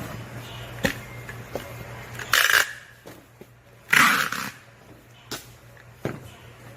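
Hand packing with paper cushioning: a few light knocks and taps of items and box, and two short loud rustles of paper about two and four seconds in, over a low steady hum.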